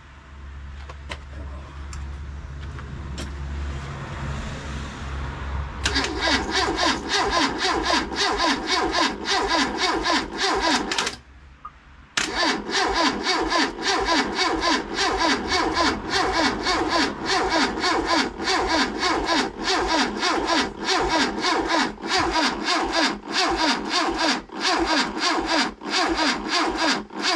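Starter motor cranking a rebuilt 1380 A-series engine in two long bursts with a brief pause between, the engine turning over in an even rhythm without catching. The engine has lost its spark and the battery pack is weak. A low hum comes before the cranking begins.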